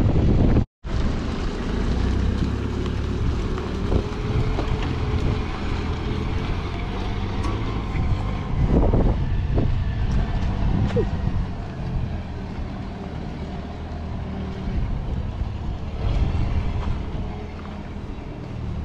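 A vehicle engine idling steadily, with wind on the microphone. There is a momentary break in the sound less than a second in.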